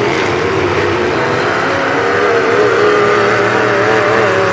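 Several demolition derby cars' engines running loud and revving, the pitch wavering up and down as the drivers throttle while pushing against each other in the dirt.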